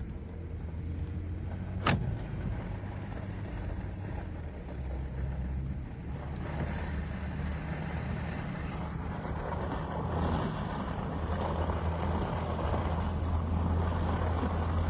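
Jeep driving on a snowy road, its engine a steady low hum under a rising wash of tyre and road noise. There is one sharp click about two seconds in.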